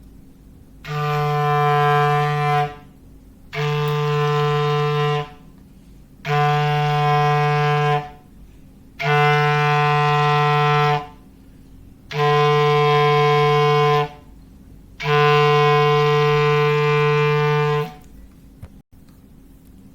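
Clarinet playing one low, steady note, held about two seconds at a time and repeated six times with short gaps, as an imitation of a foghorn.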